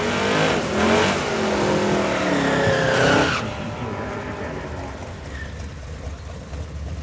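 Drag-racing car engine at full throttle, accelerating hard with its pitch gliding up and down. It cuts off suddenly about three and a half seconds in, leaving a quieter, rough engine sound.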